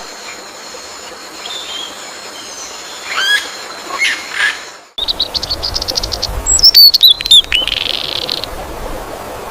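Songbirds chirping and calling: a few short calls over a steady high hum, then, after an abrupt cut about halfway, a rapid trill followed by a string of loud, sharp chirps.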